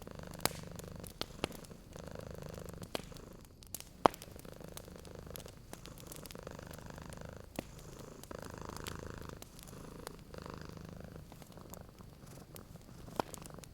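A cat purring steadily, the purr swelling and fading with each breath. Over it a wood fire crackles, with scattered sharp pops; the loudest comes about four seconds in.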